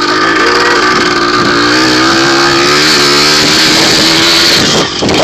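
Dirt bike's small engine running at steady revs, its pitch wavering slightly up and down, with a brief drop in loudness near the end.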